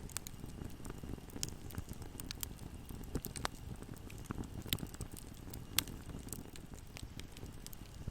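Wood fire burning in a fireplace: a steady low rumble of flames with scattered sharp crackles and pops, a couple of louder pops past the middle.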